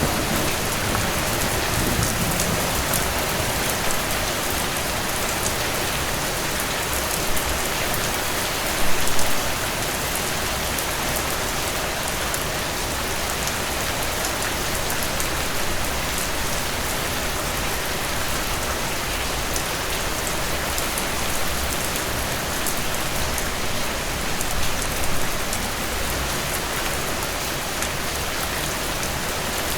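Steady rain falling, an even hiss of drops on a surface, with the last of a low thunder rumble fading away in the first couple of seconds. A couple of brief louder knocks come around seven and nine seconds in.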